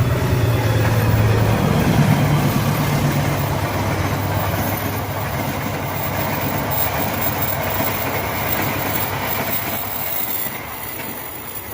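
Train passing on rails. A low steady drone comes in the first few seconds, then the rumble and rattle of the carriages rolling by, slowly fading.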